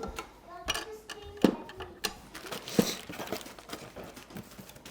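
A few sharp clicks and knocks, the clearest about a second and a half in and near the three-second mark, from objects and packaging being handled.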